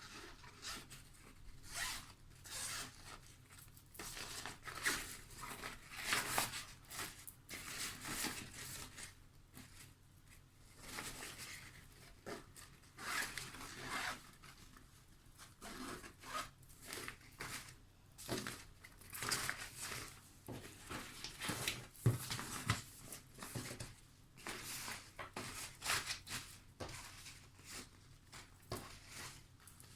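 Zippers on bags and pouches being pulled open and shut again and again, in short irregular rasps, with the fabric rustling as the bags are handled.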